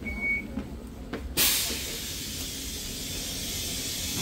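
Compressed air hissing out of a stationary double-deck commuter train's pneumatic system: it starts suddenly about a second and a half in, is the loudest thing here, and holds for about three seconds before fading. A short high beep sounds right at the start, over a low steady rumble.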